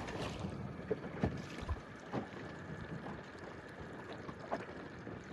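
Wind and water noise from a small boat on the water, with a few soft low thumps.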